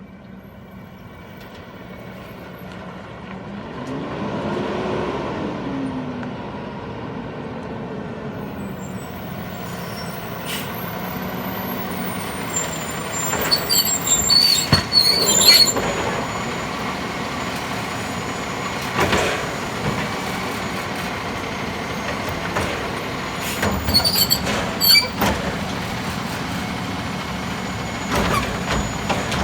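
Peterbilt 320 garbage truck's diesel engine running and drawing closer, the sound building over the first several seconds. Short squealing and hissing bursts, typical of a truck's air brakes, come at several points in the second half.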